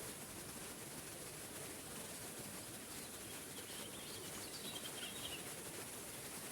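Small forest waterfall giving a steady rush of falling water. A bird chirps faintly a few times in the background from about halfway in.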